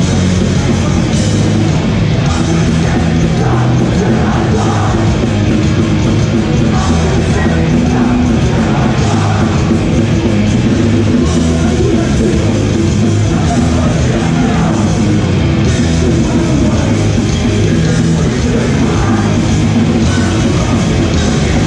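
Hardcore punk band playing live at full volume, a dense, unbroken wall of heavy rock music.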